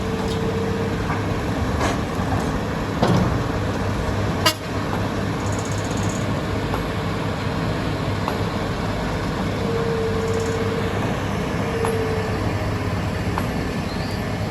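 Diesel engines of heavy quarry machinery running steadily, with a steady low hum and a faint higher tone that fades in and out. A single sharp click sounds a little past the middle.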